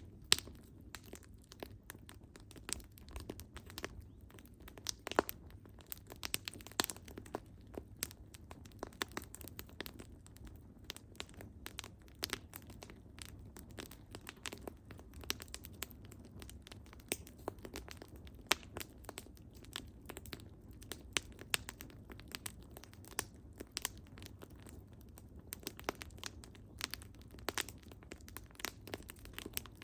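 Wood fire burning, with frequent irregular sharp crackles and pops from the firewood over a low, steady rush of flame.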